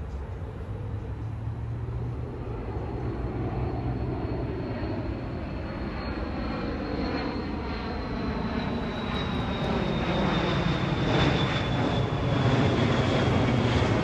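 Jet airliner's engines on approach, growing steadily louder as it nears overhead, with a high fan whine that slowly falls in pitch in the second half.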